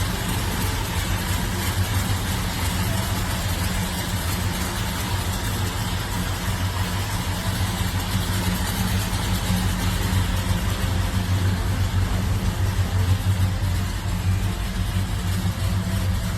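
A 1966 Dodge Coronet 500's 440 cubic-inch big-block V8 idling steadily, running a little louder for a few seconds past the middle.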